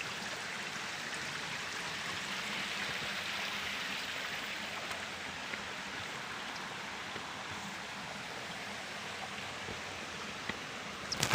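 Steady rush of water from a rocky stream flowing down toward a waterfall, with a sharp knock near the end.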